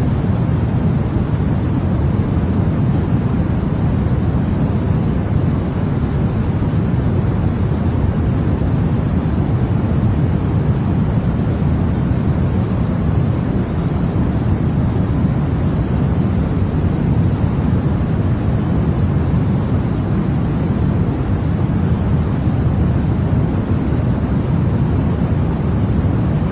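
Continuous white noise for baby sleep: a steady, unchanging rush whose weight sits in the low end, making a deep, even hiss.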